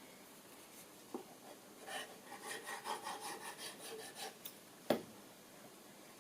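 A short run of quick rubbing or rasping strokes on timber, followed about a second later by a single sharp knock.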